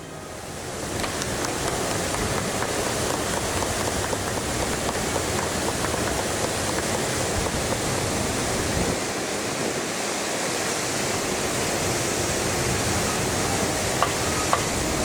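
Strong wind buffeting the microphone: a steady, rushing roar with a rumbling low end, heard during a pause in the brass band's playing.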